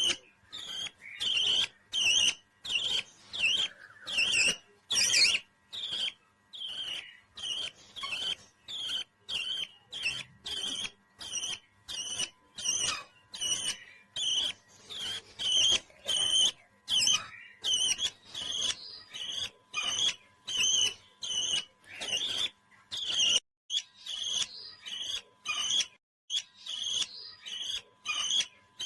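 A parrot giving short, high chirping calls in a steady series, about two a second.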